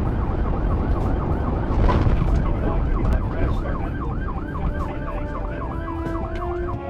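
Emergency vehicle siren on a fast yelp, sweeping up and down in pitch about three times a second, over heavy road and traffic noise; it cuts in suddenly.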